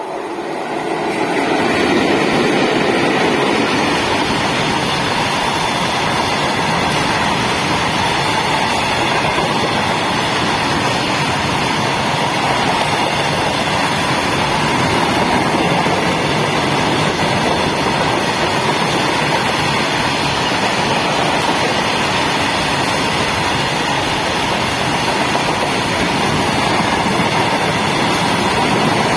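Freight train behind twin WAG-7 electric locomotives running through at speed: loud, steady wheel-on-rail noise of the passing wagons that builds over the first two seconds and then holds.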